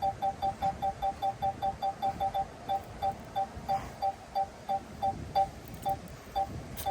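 DJI Mini 4 Pro remote controller beeping its obstacle-proximity warning: short two-tone electronic beeps, about five a second at first, slowing to about two a second, as the obstacle gets farther away.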